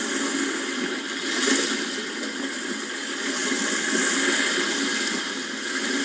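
Sea waves washing in as a steady surf hiss, swelling a little twice.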